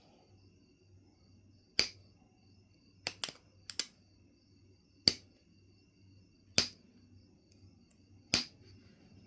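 Knife River flint being knapped: a series of sharp clicks as flakes snap off the stone, single strikes a second or more apart with two quick pairs near the middle.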